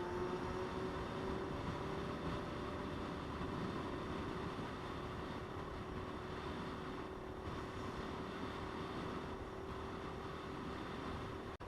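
Motorcycle engine running at cruising speed under heavy wind rush. The engine note rises a little at first, then holds steady.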